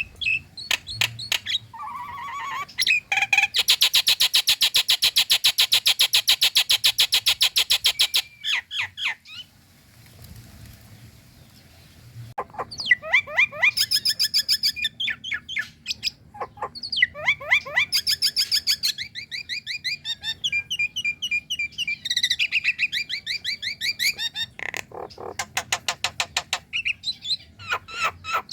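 Female jalak nias myna calling: a loud, fast, harsh rattle lasting about four seconds, then after a short pause, bursts of chattering and whistled notes.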